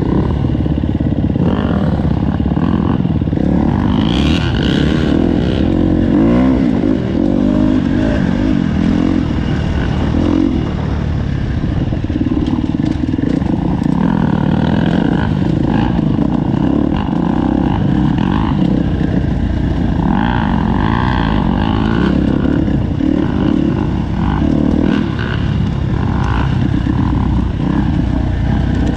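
KTM four-stroke motorcycle engine running under way, its revs rising and falling again and again as the throttle is worked.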